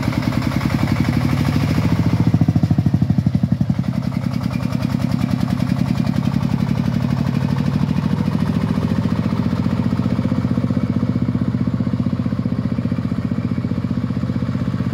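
Sifang 40 tractor's diesel engine chugging under load while hauling acacia logs, a fast, even beat of firing strokes. It sounds busier for the first few seconds, then settles to a steady run.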